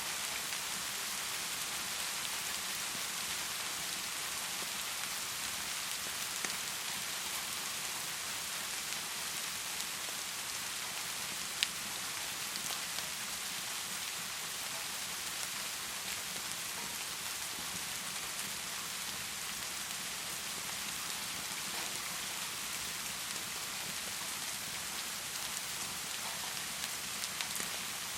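Heavy rain falling steadily, a dense even hiss, with one sharp click a little before the middle.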